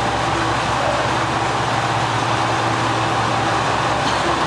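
Steady rumble of a train at a railway station, with an even low hum.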